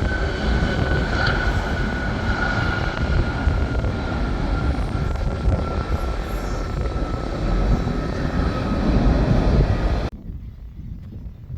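Airliner passing close on its landing approach: loud, steady engine noise with a whine that falls slowly in pitch. It cuts off abruptly about ten seconds in, leaving a much quieter background.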